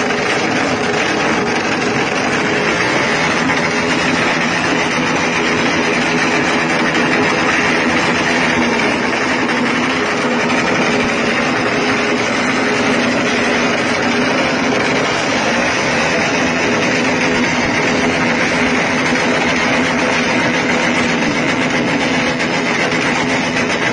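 Motorcycle engine running steadily at constant revs through its exhaust during an exhaust test.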